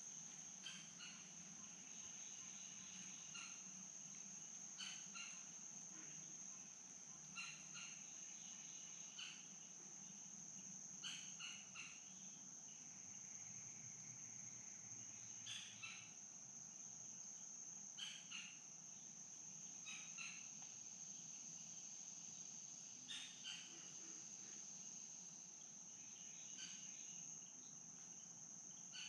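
Faint insect chorus of crickets: a steady, high-pitched trill with no breaks. Short chirping calls from another animal come through it every one to three seconds.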